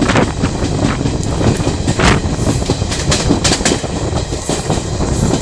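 Wheels of a moving passenger train clattering over the rails at speed, heard from an open coach door with a steady rumble and rush of air. A quick run of sharper clacks comes in the middle, as the wheels cross rail joints.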